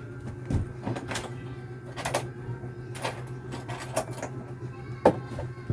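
Irregular light clicks and taps, about two a second, over a steady electrical hum.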